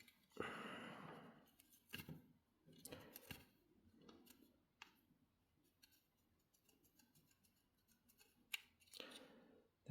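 Faint handling noise of plastic kettle parts: a short scraping rustle, then scattered light clicks and taps as the parts are turned over and checked.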